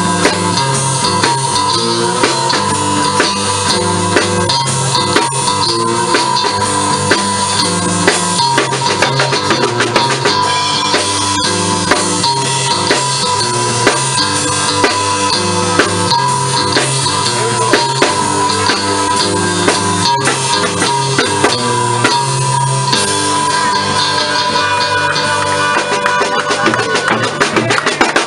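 Live blues band playing an instrumental passage: a drum kit keeps a steady beat under electric guitar, with a repeating low bass line.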